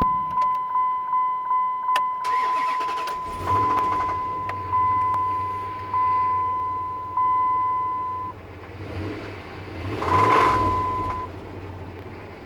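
A dashboard warning chime beeps, quickly at first and then more slowly. About two seconds in, the starter cranks and a 5.7 L Hemi V8 catches and settles into a steady run. The chime stops about eight seconds in. A louder swell of engine and a short steady tone come at about ten seconds. This engine has a knocking noise that the owner cannot pin down as a rod or a lifter.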